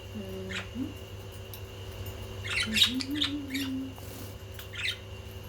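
Budgerigars chirping in short bursts, with a busy cluster of chirps about halfway through.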